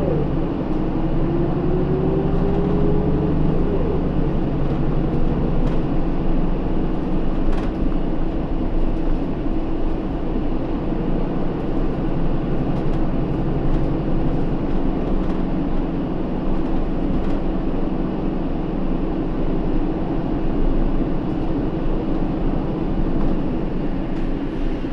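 Hino Rainbow II city bus's diesel engine and drivetrain running while the bus is under way, heard from inside the cabin. A whine rises in pitch over the first few seconds as the bus gathers speed, then the running goes on steadily.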